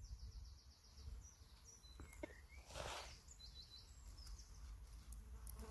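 Near silence with faint birdsong: a small bird giving quick series of high repeated notes near the start and again about three and a half seconds in. A brief soft rustle comes a little before the second series.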